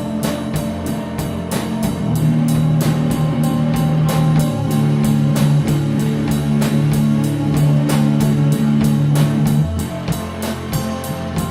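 Stoner rock played by a band, with electric guitars holding low notes over a steady drum beat.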